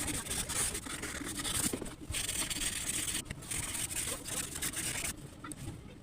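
Drawing tool scratching across paper in long strokes, with brief pauses between them about two, three and five seconds in, over a low background rumble.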